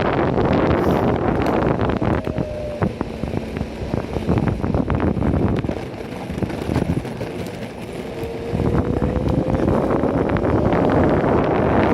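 Wind buffeting the phone's microphone while riding an Enertion Raptor 2 electric skateboard, easing for a few seconds midway, where scattered clicks come through. A faint whine rises in pitch over the last few seconds.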